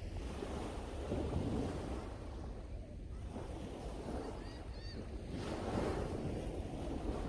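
Sea waves washing and breaking on the shore, rising and falling slowly, with strong wind buffeting the microphone in a steady low rumble. A few faint short high chirps come through about halfway.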